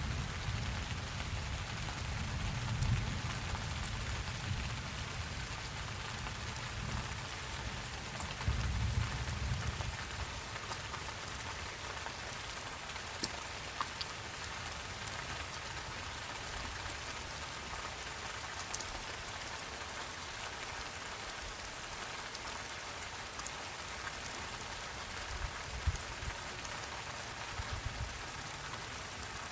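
Steady rain falling, an even hiss with scattered sharp drop ticks. A low rumble underneath through roughly the first ten seconds fades away.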